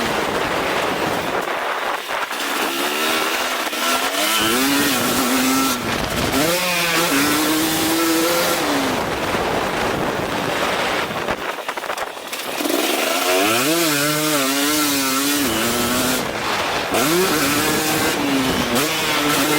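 2023 KTM 250 SX-F four-stroke dirt bike engine being ridden hard, its revs rising and falling again and again with throttle and gear changes, dropping off briefly twice, over a constant hiss.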